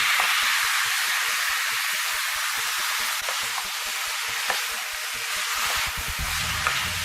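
Fresh wild mushrooms sizzling in hot coconut oil and onion-tomato masala just after going into the pan: a steady hiss, loudest as they go in and easing off a little, with a few small clicks.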